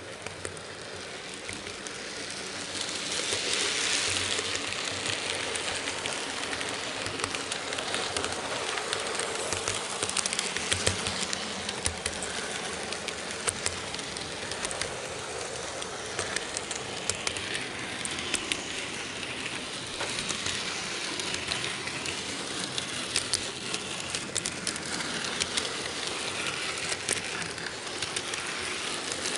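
N-scale model freight train and camera car running on the track, picked up by the action camera riding on it: a steady rattle of small wheels on the rails, dotted with frequent light clicks, swelling about three to five seconds in.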